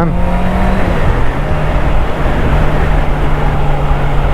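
Honda CBR650R's inline-four engine running under way, its note dropping about a second in and then holding steady, with heavy wind rush over it.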